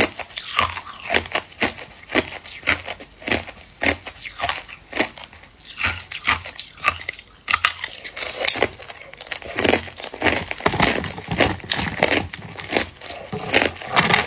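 Hard clear ice being bitten and chewed: a close, continuous run of sharp crunches, about two to three a second.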